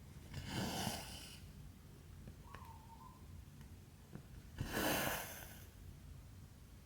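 Embroidery thread pulled through cross-stitch fabric: two swishes, each about a second long, one near the start and one about two-thirds in.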